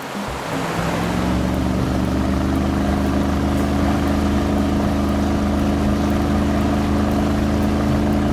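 A vehicle engine running steadily. It comes in about half a second in and holds an even, unchanging note.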